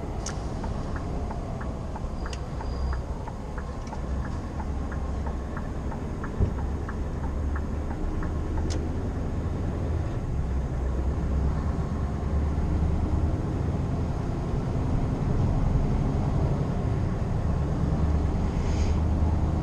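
Scania R520 V8 truck engine running steadily under way, with a low drone and road noise, slightly louder in the second half. A regular light ticking sounds for several seconds in the first half.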